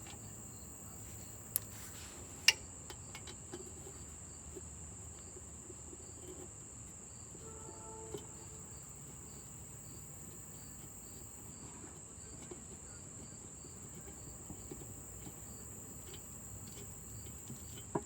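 A steady high-pitched insect trill, with a sharp knock about two and a half seconds in and a fainter click just before it.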